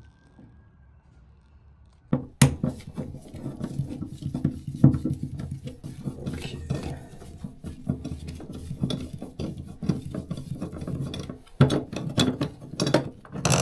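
Small metal parts and tools clinking and rattling against a bathtub as its drain fittings are taken apart, starting suddenly about two seconds in, with a steady low hum underneath.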